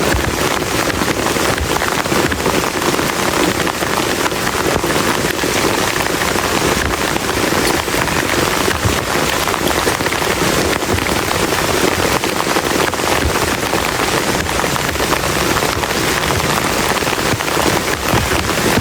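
Heavy rain falling steadily in a dense patter of drops.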